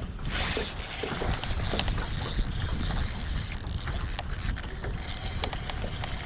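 Wind rumbling on the microphone on an open boat, with scattered light clicks throughout.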